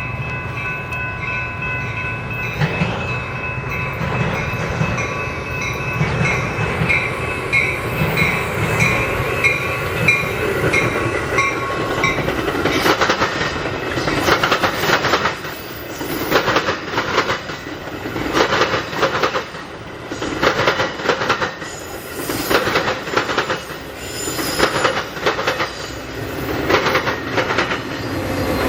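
A freight train passing close by. Over the first twelve seconds there is a low rumble with steady high ringing tones; after that the wheels click over the rail joints in a regular clickety-clack, about once a second.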